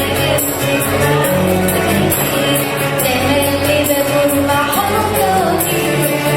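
A choir singing an Arabic Christian hymn over an instrumental backing with a steady beat.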